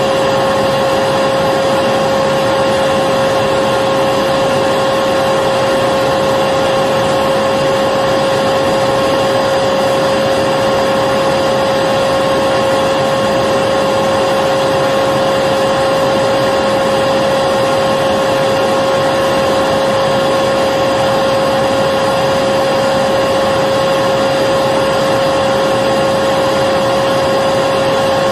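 Electric vacuum cleaner running steadily: a constant rushing noise with a steady motor whine, no change in speed or load.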